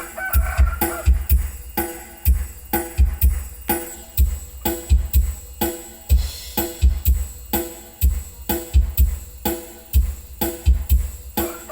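Drum-heavy music with deep, punchy bass-drum kicks played through a sound-system demo rig: an 18-inch bass speaker cabinet with midrange speakers.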